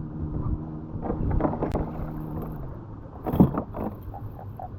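A steady engine hum, with irregular knocks and rustling laid over it and a brief louder sound about three and a half seconds in.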